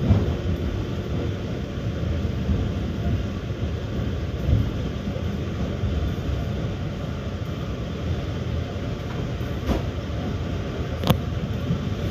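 Steady rumble of a moving passenger train heard from inside the carriage, the wheels running on the rails. Two sharp wheel clacks come near the end.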